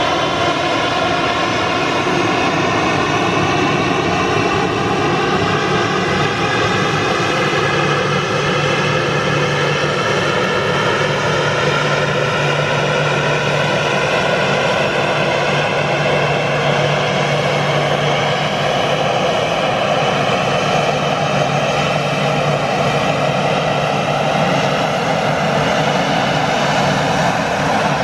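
Boeing 737-800 jet engines (CFM56-7B) running loudly and steadily. Several whining tones slowly rise in pitch over the noise of the engines.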